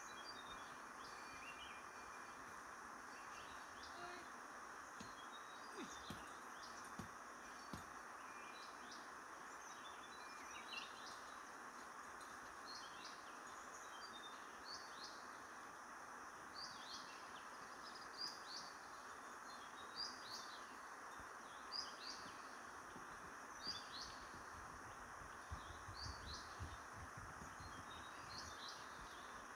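Small birds chirping: many short, high, downward-sweeping calls, more frequent in the second half, over a steady background hiss. A few faint low knocks come about six to eight seconds in.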